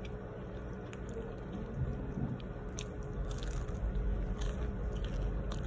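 A person biting and chewing a crunchy orange cheese snack close to the microphone, with a few faint, sharp crunches over a low steady rumble.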